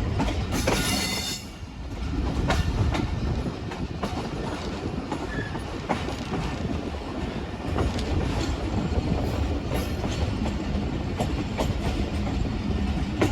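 Train running on the rails: a steady rumble with wheels clicking over rail joints, and a brief high metallic wheel squeal about a second in.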